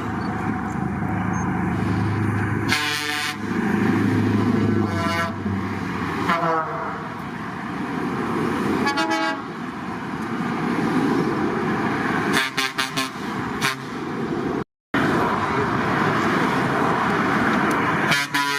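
A line of trucks driving past with engines running, sounding their horns in about five short blasts, some bending in pitch.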